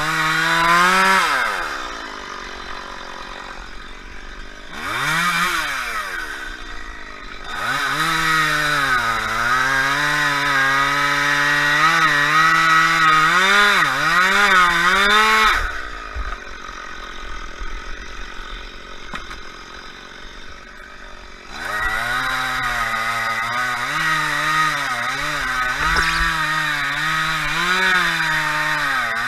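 Chainsaw running at high revs, its pitch wavering up and down. It drops back to a quieter idle twice, the second time for about six seconds in the middle, then revs up again.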